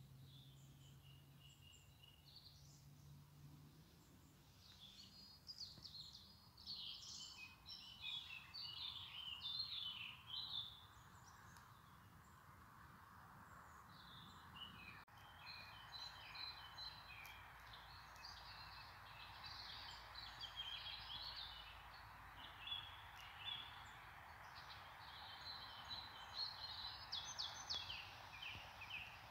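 Faint birdsong: quick high chirping phrases in two spells, the first starting about five seconds in and the second running from about halfway, over a steady soft hiss.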